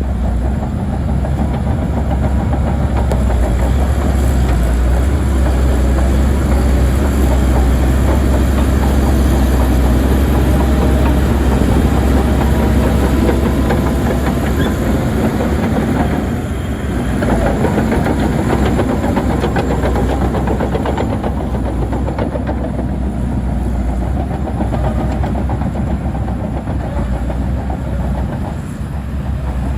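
Heavy tracked earth-moving machine working: a diesel engine running hard under the clanking rattle of steel tracks. The sound drops briefly about sixteen seconds in and again near the end.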